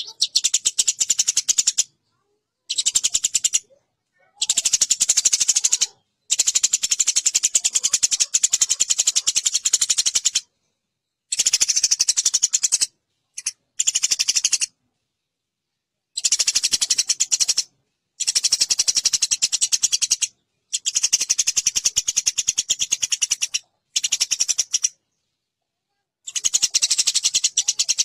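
Eurasian tree sparrows fighting: fast, harsh chattering calls in bursts of one to four seconds, about ten of them, broken by short silent gaps.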